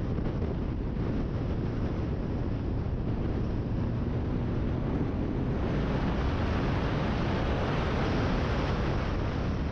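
Kawasaki Ninja ZX-10R inline-four sport bike running at speed, its engine mixed with wind buffeting on the microphone. About halfway through the sound grows louder and brighter for a few seconds, easing near the end.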